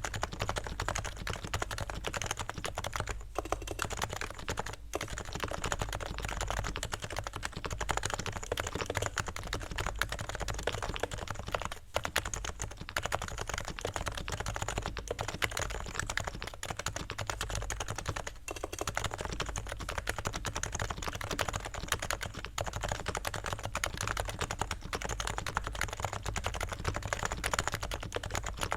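Realforce R3 TKL silent keyboard with equal 45 g Topre capacitive switches, in stock form before lubing, typed on quickly and continuously, with a few short pauses.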